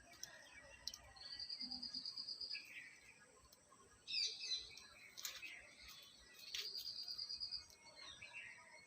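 Parrot calling: two rapid, high trills of about ten notes a second, the first about a second in and the second past six seconds in, with a harsher call about four seconds in and a few sharp clicks between.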